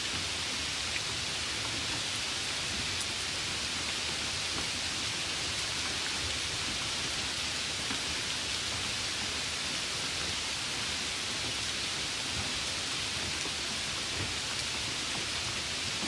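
A steady, even hiss, brighter than it is deep, with no distinct events in it.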